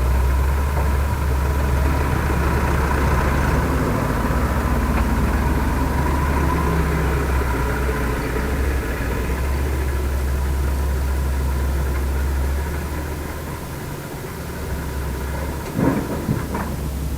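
Heavy diesel engine of earth-moving machinery running steadily with a deep rumble and a steady whine, dropping a little in level near the end, followed by a few sharp clanks.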